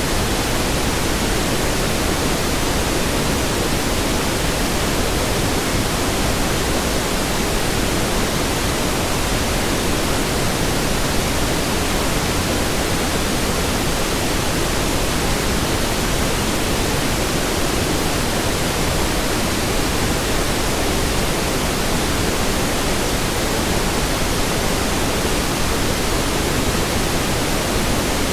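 Steady pink noise: an even hiss across the whole range with no tones, rhythm or events.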